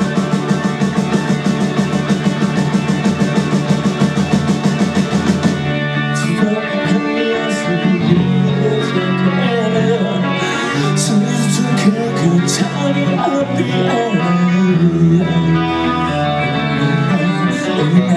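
Live rock band playing a song's instrumental intro on electric guitars, bass and drum kit. A fast, even driving pulse for about the first five seconds, then guitar melody lines over the band with occasional cymbal crashes.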